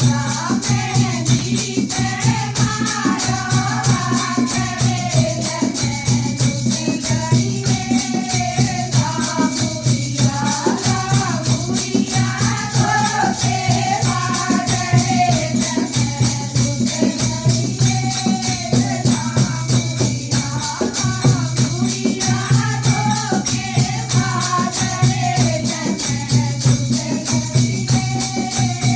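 A languriya bhajan, a Hindi folk devotional song, with a singing voice over fast, continuous jingling hand percussion and a steady low accompaniment.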